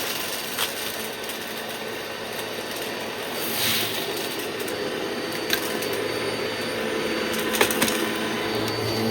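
Vacuum cleaner running steadily, with a few sharp clicks.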